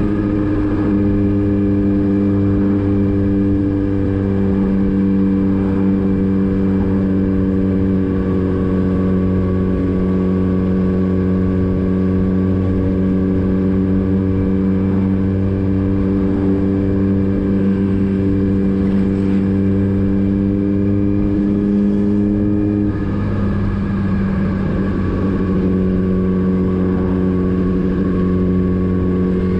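Motorcycle engine running steadily, its pitch dipping slightly about a second in and shifting again about three quarters of the way through as the engine speed changes.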